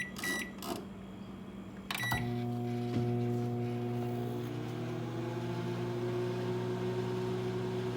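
Microwave oven keypad beeping a few times, then the oven starting up about two seconds in and running with a steady hum as it begins heating an egg.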